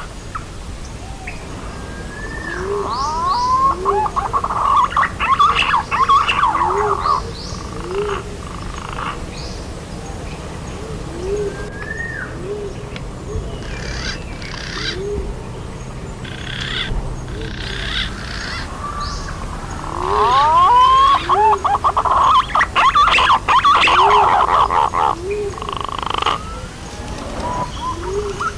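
Punai (green pigeon) calls played as a lure: short, low, hooked notes repeat about twice a second, and twice a loud bout of rising whistles and chattering notes breaks over them.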